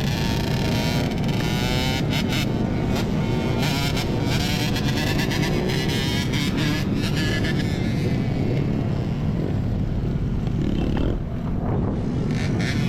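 Motorcycles running in a group on the street, with an engine note rising over the first couple of seconds, over a steady roar of road and motor noise.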